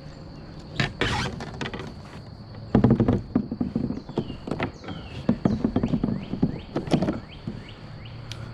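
Irregular knocks and thuds on a kayak, with clusters around one second in and from about three to seven seconds in, over a steady high insect drone.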